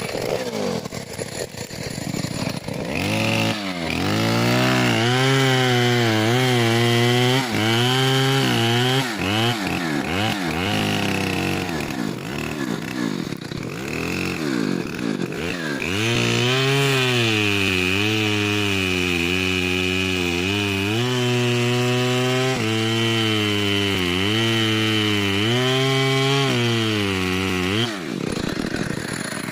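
Stihl 070 two-stroke chainsaw cutting into a large tree trunk, its engine pitch repeatedly sagging under load and picking back up as the chain bites. It runs quieter and less steadily for a few seconds in the middle, then drops off suddenly near the end.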